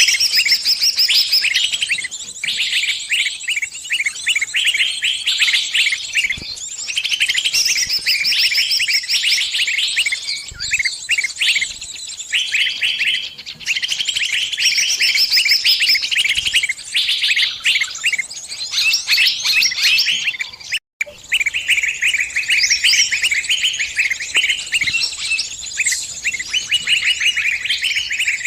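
A small bird's rapid, high-pitched chirping distress calls, which the recording presents as a trapped bird calling its flock for help. The calls come in dense, unbroken runs, with a split-second dropout about 21 seconds in.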